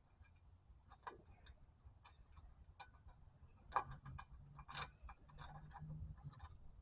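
Faint, scattered clicks and metal clinks of hand tools working the driveshaft bolts under a truck, with two louder clinks about four and five seconds in, over a faint low hum.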